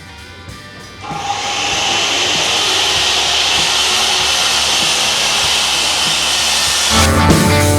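Circular saw cutting through plywood and sheetrock: a loud, steady, hissing whine that starts about a second in and stops near the end, over rock music.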